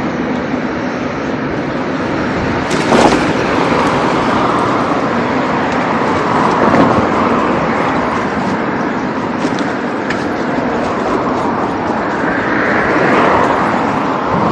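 Steady street traffic noise of passing vehicles, with a short sharp click about three seconds in.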